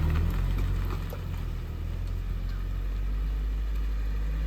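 Car engine running, a low rumble that eases off during the first second and then holds steady.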